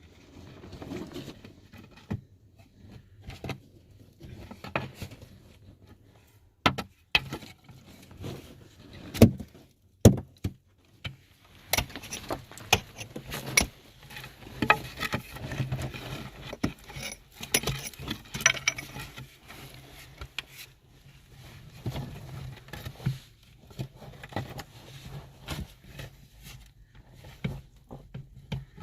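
Irregular clinks, knocks and rattles of objects being handled, some sharp and loud, over a faint low steady hum.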